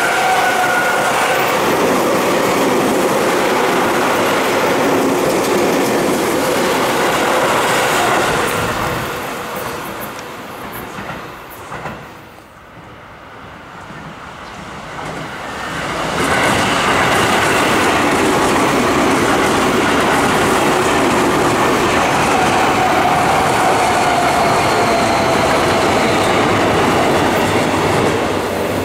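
Seibu Railway electric commuter trains passing close by: the first train's running noise and steady whine die away to a quieter spell about halfway through. Then a Seibu 6000 series train comes up and passes loudly, its whine falling in pitch near the end.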